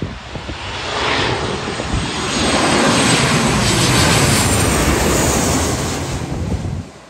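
Passenger airliner passing low overhead. Its engine noise builds to a loud peak with a high whine that falls slightly in pitch, then eases and cuts off suddenly near the end.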